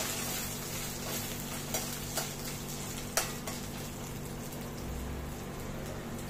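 Coconut frying in mustard oil and ghee in a kadai: a steady sizzle, with a few sharp clicks against the pan in the first half as it is stirred.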